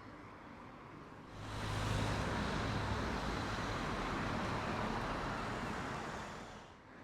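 A road vehicle going by: a rushing noise of tyres and engine that swells about a second in, holds for about five seconds and fades near the end.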